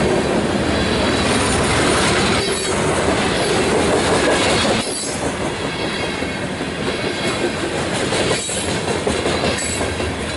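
Freight train of covered hopper cars rolling past close by: a steady rumble of steel wheels on the rails, with a few brief high wheel squeals. The last car is passing near the end.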